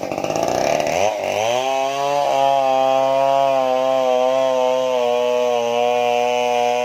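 Stihl chainsaw engine climbing to full throttle over the first second or so, then holding a high, steady pitch with a slight sag, as when the chain is working through wood.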